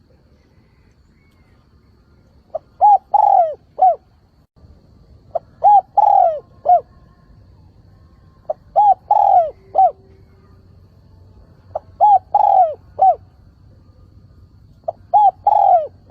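Spotted dove cooing its repeated call: five phrases about three seconds apart, each a short lead-in note followed by three coos, the middle coo the longest.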